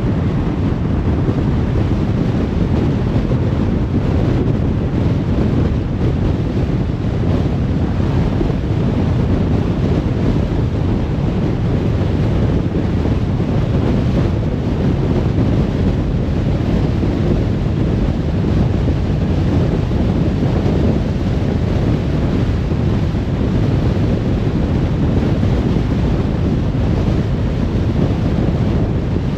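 Steady low rumble of a car driving along a motorway: tyre and wind noise, even and unbroken.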